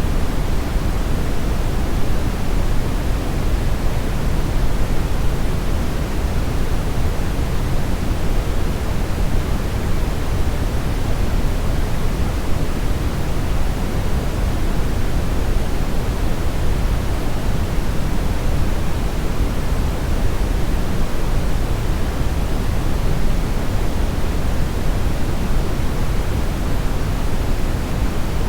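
Steady synthetic brownish noise: a continuous, even hiss-rumble weighted toward the bass, unchanging throughout.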